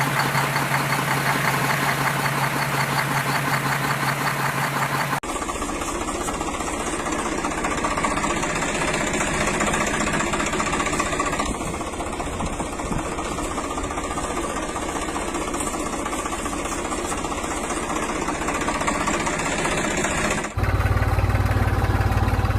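A mini tractor's motor running steadily. The sound changes abruptly about five seconds in and again near the end.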